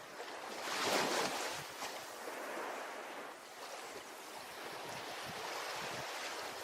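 Ocean surf on a beach: a wave breaks with a louder rush about a second in, then the water washes on steadily.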